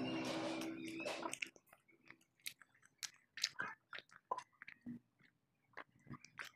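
Background music fades out over the first second and a half. Then close-miked mouth sounds of a child eating and drinking follow: short wet clicks and smacks of chewing cabbage omelette, and swallows as she drinks from a cup.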